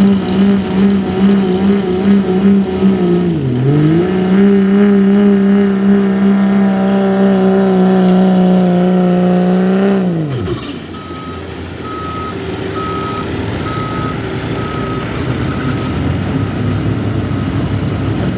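Diesel pickup truck engine held at high, steady revs under load while pulling the sled, with a brief dip about three seconds in. About ten seconds in the revs fall away sharply as the pull ends. A reversing beeper then sounds about once a second over lower engine noise.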